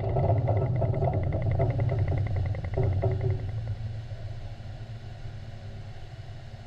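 Deep rumble of a large underwater explosive charge detonated in a ship shock trial, fading away over the second half. A rapid, even high ticking runs through the first three seconds.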